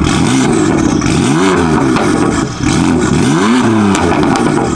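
BMW F82 M4's S55 twin-turbo straight-six, fitted with a new single mid-pipe exhaust, revved twice at a standstill, the revs climbing and dropping back each time. Loud.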